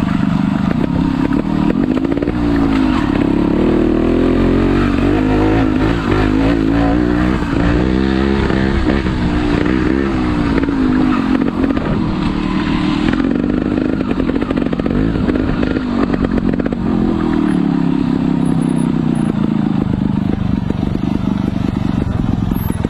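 Motorcycle engine running while the bike is ridden, its revs rising and falling again and again through the first half, then running more evenly and dropping a little.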